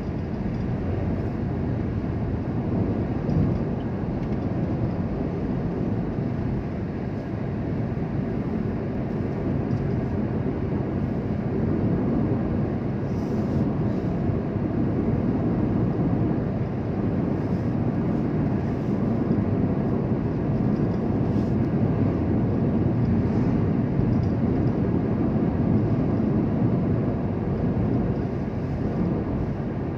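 Steady low rumble of a moving vehicle, with road and engine noise and no distinct events.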